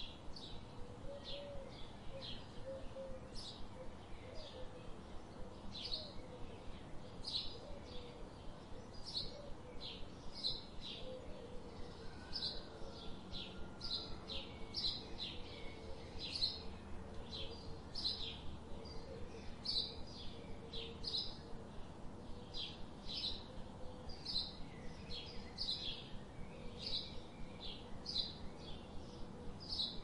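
Birds chirping: short high chirps repeated irregularly, about one or two a second, over a faint low warbling call and a steady background hiss.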